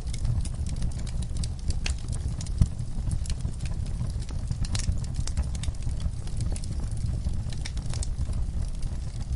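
Wood fire burning logs, with a steady low rumble of the flames and frequent irregular crackles and pops, one sharper pop a little over two and a half seconds in.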